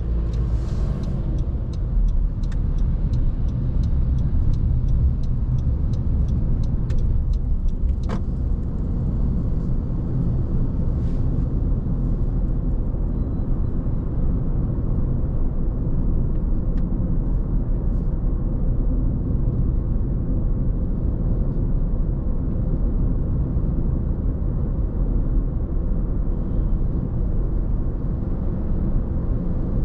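A car driving: steady low rumble of engine and road noise. A regular ticking, about two ticks a second, runs through the first eight seconds, with a single sharper click near its end.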